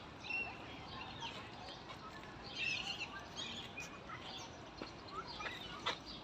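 Birds chirping in short, scattered calls over a steady outdoor background noise.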